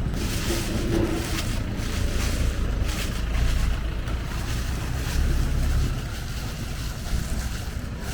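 Wok cooking over a gas burner: a steady low burner rumble, with a few scrapes and clanks of a metal spatula in the wok.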